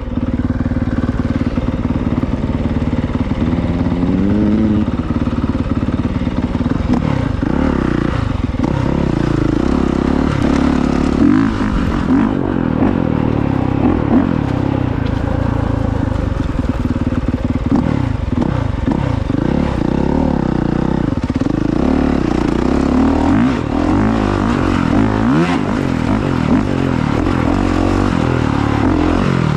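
Honda CRF450R dirt bike's single-cylinder four-stroke engine being ridden hard, revving up and down throughout with its pitch rising and falling repeatedly as the throttle is worked.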